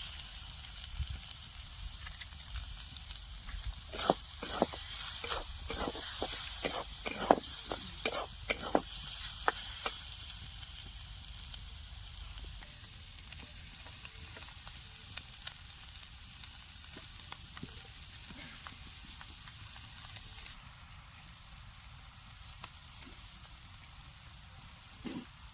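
Food sizzling in hot oil in a pan. A quick run of sharp taps and scrapes of a utensil against the pan comes from about four to ten seconds in.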